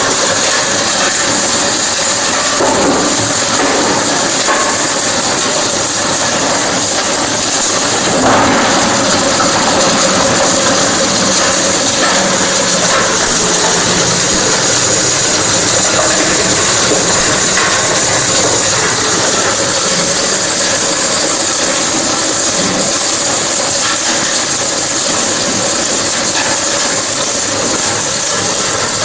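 Industrial animal bone crusher running steadily and loudly, crushing bones.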